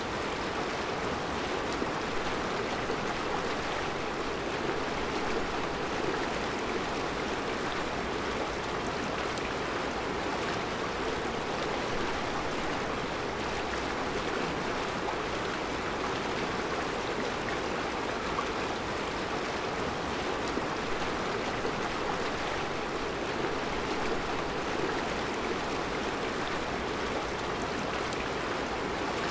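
Mountain river flowing over round rocks in a rocky bed: a steady, unbroken rushing of water.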